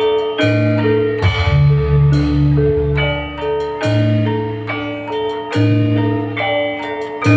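Live band music played from a stage: a melody of struck, ringing pitched notes over a bass line, with a sharp beat every second or so.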